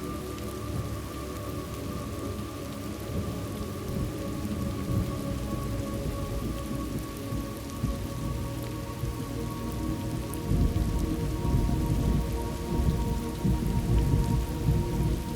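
Rain falling steadily with thunder rumbling, the low rumble swelling about two-thirds of the way through. A few steady held tones sit underneath.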